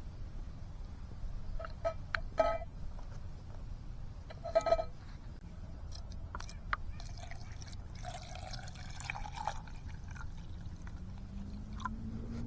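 Two ringing metal clinks of camp cookware, a couple of seconds apart, then softer sounds of liquid being poured.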